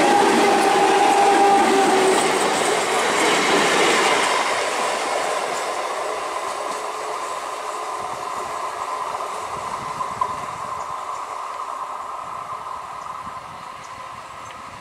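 Indian Railways EMU local train passing close at speed, wheels clattering over the rail joints with a whine in the first few seconds, then fading steadily as it moves away. A single sharp click sounds about ten seconds in.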